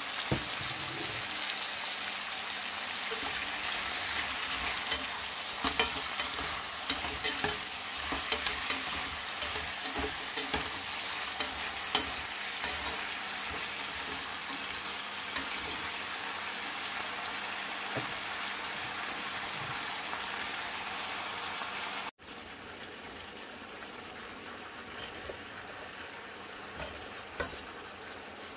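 Bok choy sizzling as it stir-fries in a pan, turned with a slotted spatula, with many sharp clacks of the spatula against the pan in the first half. About three-quarters of the way through the sizzle cuts suddenly to a quieter level.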